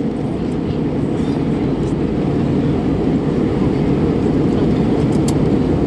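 Airliner cabin noise in flight: a steady low rumble of engines and airflow heard from inside the passenger cabin, with a few faint clicks.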